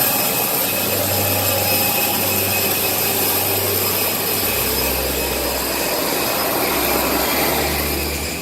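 Jet airliner engines and rushing air, a loud steady roar with a low hum that shifts about halfway through.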